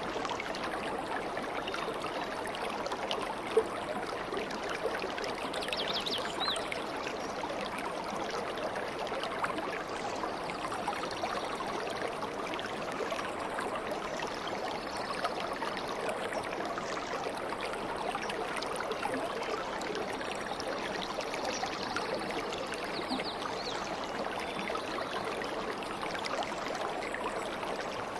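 A stream running steadily, water babbling and trickling over stones.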